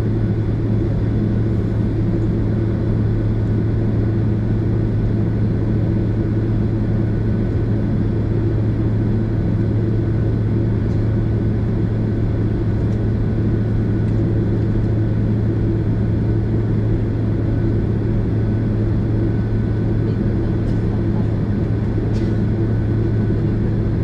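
Steady cabin drone of a Boeing 767 airliner with its jet engines running: a strong low hum with a faint steady high tone over it.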